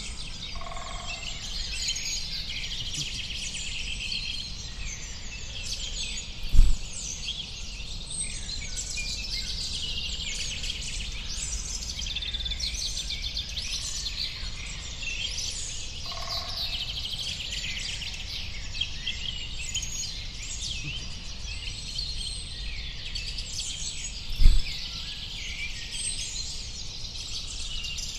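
A chorus of many small birds chirping and trilling over one another, over a steady low rumble. A brief low thump comes twice, about six seconds in and again some eighteen seconds later.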